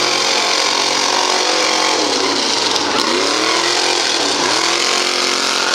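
Mega truck's engine running loud, its revs dipping and climbing back up twice.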